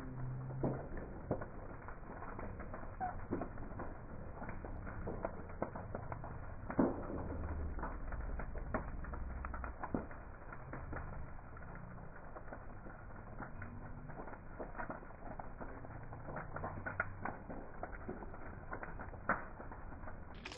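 Wood fire crackling, with irregular sharp pops and snaps over a low rumble. The loudest pop comes about seven seconds in. It sounds dull, with no treble.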